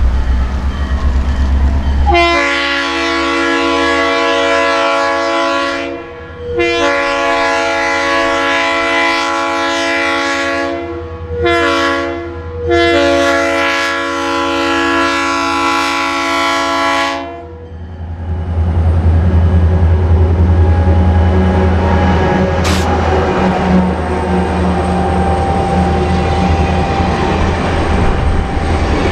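Diesel locomotive sounding its multi-chime air horn in the grade-crossing pattern of long, long, short, long, which signals the train approaching a road crossing. Deep engine rumble runs under it and carries on after the last blast, along with the rattle and clatter of the train rolling on the rails.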